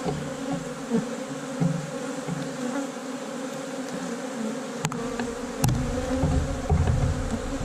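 Honey bees from a large, strong colony buzzing in a steady hum around an open hive. A sharp click about five seconds in, then low rumbling noise near the end.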